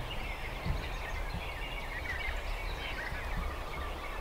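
Small birds chirping and twittering in short, scattered calls over a steady low rumble.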